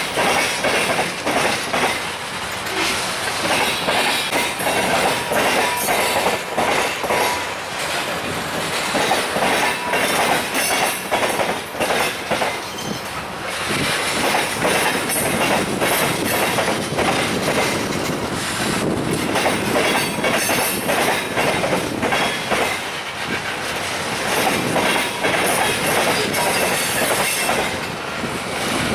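Freight train cars rolling past steadily, their wheels clicking in quick succession over the rail joints.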